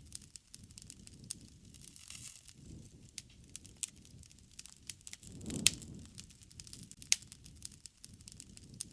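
Wood fire crackling: scattered sharp pops and snaps at irregular intervals, the loudest about five and a half seconds in, over a soft low rush of flame that swells and fades.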